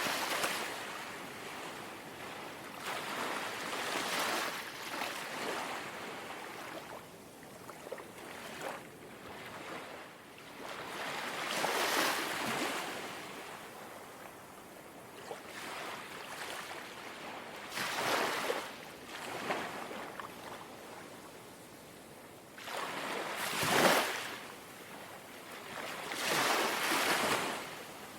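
Small sea waves lapping and washing onto the shore, each swelling and fading in turn every few seconds. The strongest wash comes about 24 seconds in.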